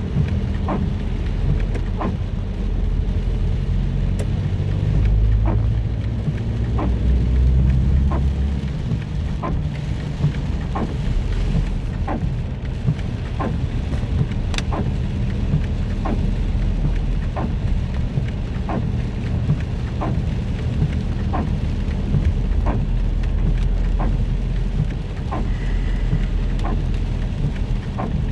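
Car driving in the rain, heard from inside: steady engine and road-tyre rumble with rain on the car. Windscreen wipers tick at a regular pace, about once a second.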